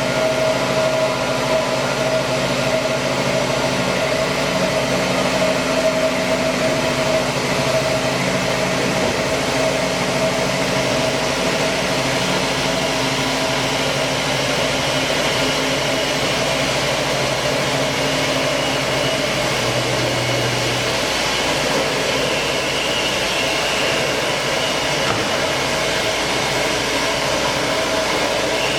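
Large industrial band sawing machine (KOTEC Diamond-1300DT) running steadily as it cuts a steel H-beam: a continuous machine hiss with a steady hum.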